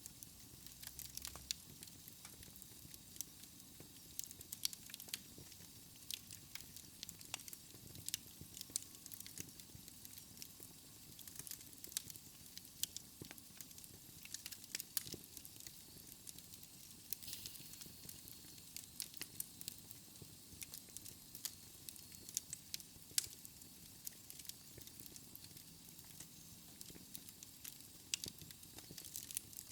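Wood fire in a fireplace crackling, with irregular sharp pops and a soft steady hiss.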